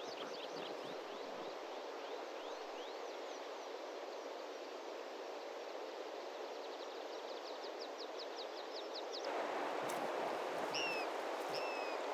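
Steady rushing outdoor background with a small bird's rapid trills of short falling chirps. About nine seconds in, the background suddenly grows louder, and a few short, separate falling whistled calls follow.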